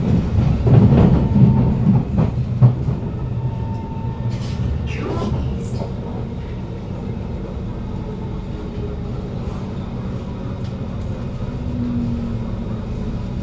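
Inside a Kawasaki Heavy Industries C151 metro car: wheels rumbling and clicking over the track for the first few seconds, then settling to a steadier, quieter low hum.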